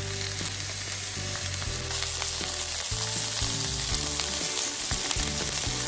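Pork-wrapped tsubomina rolls sizzling steadily in a nonstick frying pan, cooking in the fat rendered from the pork with no added oil. Occasional light clicks come as chopsticks turn the rolls.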